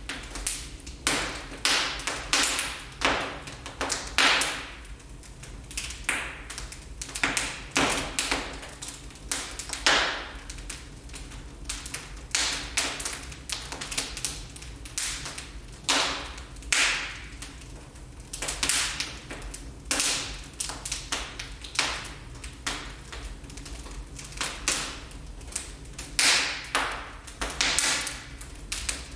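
Wood fire burning in a fireplace, crackling with irregular sharp pops, several a second, some louder than the rest.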